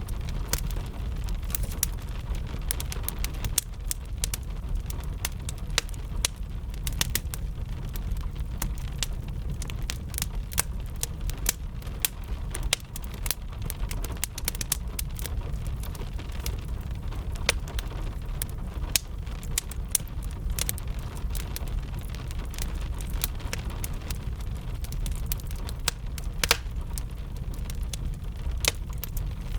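Fire crackling with frequent sharp pops over steady rain and a constant low rumble.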